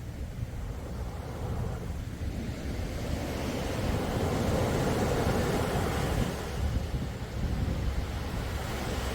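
Sea waves washing ashore, a steady rushing that swells into a louder wave about four seconds in, then eases and builds again.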